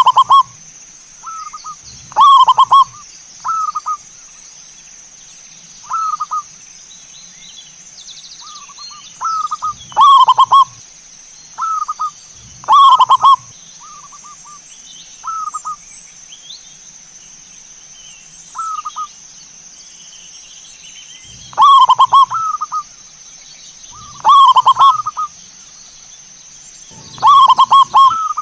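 Zebra dove (perkutut) cooing: loud rolling phrases of low notes every few seconds, with shorter, softer single coos in between.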